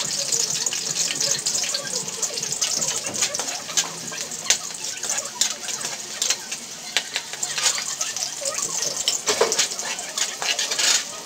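Chopped garlic and onion sizzling in hot oil in a metal wok, with a steady hiss. A metal ladle stirring them gives frequent sharp scrapes and clinks against the pan.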